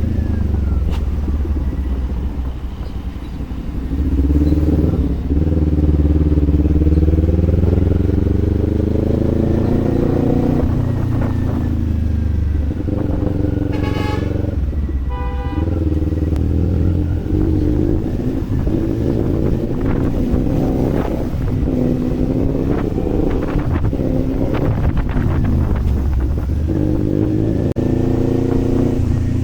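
Kawasaki Z400 parallel-twin engine running under way, its revs rising and falling repeatedly with throttle and gear changes. A horn sounds twice, briefly, about halfway through.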